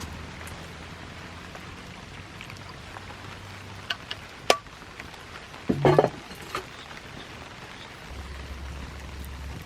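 Steady rain hiss. A few sharp knocks come about four seconds in, and a short clatter near the middle is the loudest moment.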